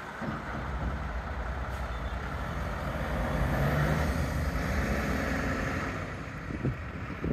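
Dump truck engine running with a steady low rumble that builds to its loudest about four seconds in, then eases a little, with a couple of brief knocks near the end.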